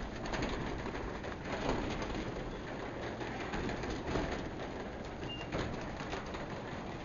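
Craftsman 3/4 HP belt-drive DC garage door opener running as the door travels, heard from outside the garage as a steady low hum. Doves or pigeons coo in the background.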